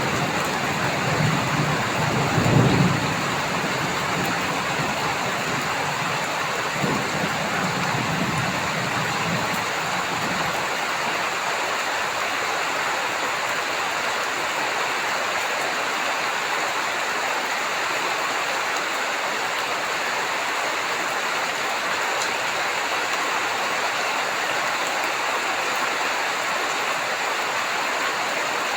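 Heavy rain falling steadily, with a low rumble of thunder dying away in the first few seconds.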